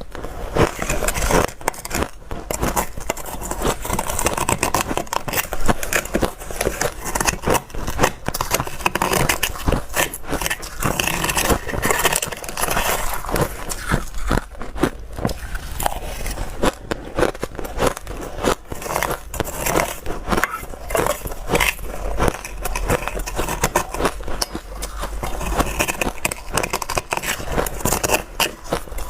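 A person biting and chewing dry, crunchy ice close to the microphone: a dense, unbroken run of sharp crunches and cracks.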